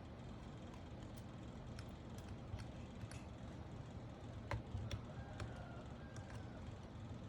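Scattered small clicks and taps of mechanical keyboard parts being handled and fitted, irregular and louder around the middle, over a steady low hum.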